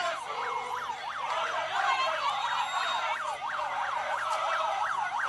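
Electronic siren in yelp mode: a fast, steady wail sweeping up and down in pitch about three times a second.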